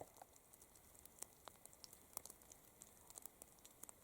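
Near silence, with faint scattered clicks and ticks over a low hiss.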